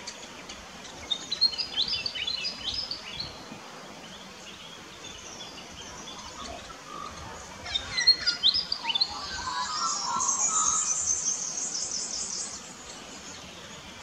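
Small birds calling: a burst of sharp high chirps about a second in, another near eight seconds, then a high, rapid twittering for about three seconds in the second half, over a steady background hiss.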